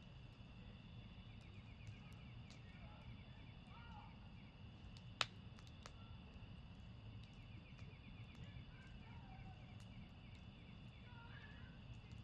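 Wood campfire crackling faintly, with scattered small pops and one sharp, much louder pop about five seconds in. Behind it is a steady high chirring with a fast trill, and a few short calls.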